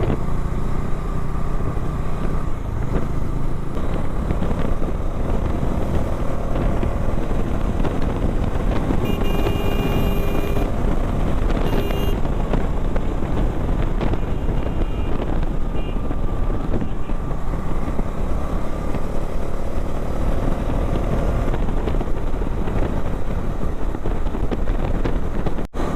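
Motorcycle engine running steadily on the road, with a dense, even rush of riding noise. Around ten seconds in, a brief steady tone sounds for a couple of seconds.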